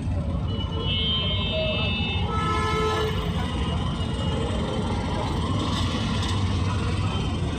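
Steady low rumble of street traffic, with a brief horn toot of flat, stacked tones between about one and three seconds in.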